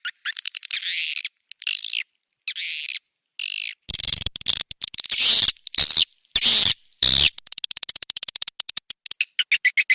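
Recorded swiftlet lure calls: short bursts of chattering chirps, then several loud, harsh squawking bursts about halfway through, and a fast run of clicks near the end.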